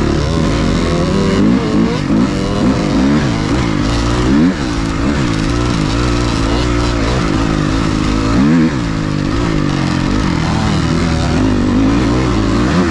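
Motocross dirt bike engine riding under load, its pitch climbing and dropping again and again as the throttle is opened and rolled off.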